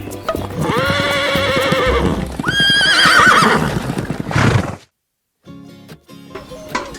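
A horse whinnying twice, two long wavering calls with the second starting higher, over background music; the sound cuts out abruptly for a moment near the end before the music returns.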